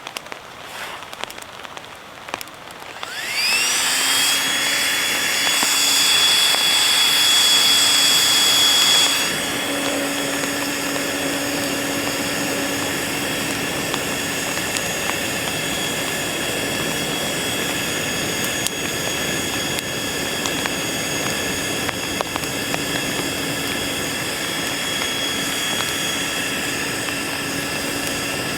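A small electric fan motor whines up to speed about three seconds in and then runs steadily with a high whine. Its loudness drops back a little about nine seconds in. It is blowing air into a campfire built of wet wood.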